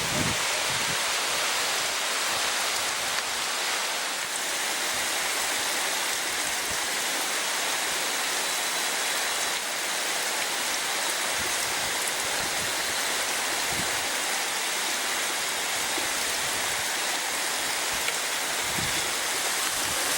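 Steady rush of running water, like a mountain stream or cascade, even and unbroken throughout.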